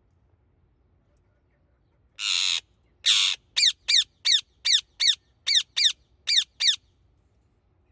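Indian ringneck parakeet calling: two harsh squawks about two seconds in, then a quick run of about nine short, sharp calls, each falling in pitch, about three a second.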